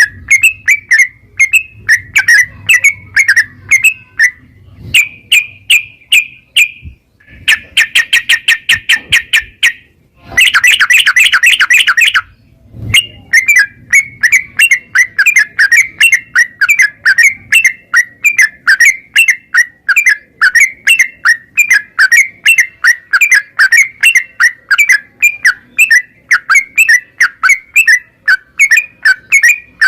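Yellow-vented bulbul (trucukan) singing rapidly and continuously: quick repeated chirping notes, several a second, broken about a third of the way in by two dense fast trills.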